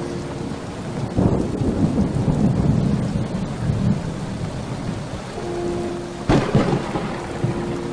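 Rain falling steadily, with a deep rumble lasting a few seconds starting about a second in and a sharp crack a little after six seconds.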